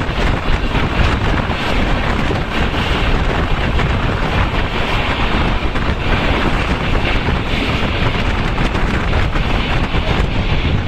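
Passenger train heard from on board while running: a steady rumble of the coach at speed, with wind buffeting the microphone.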